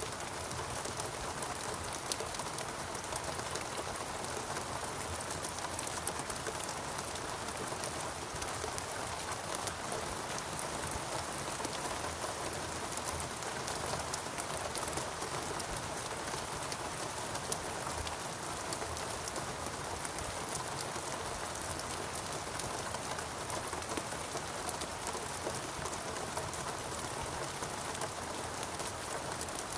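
Steady rain falling on foliage and surfaces, a dense patter of many drops without a break.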